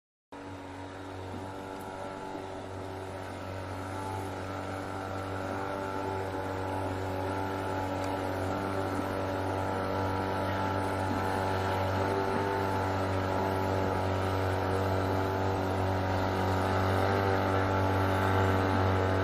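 Steady motor hum at a fixed pitch from a small RC toy tractor, starting abruptly and growing slowly louder.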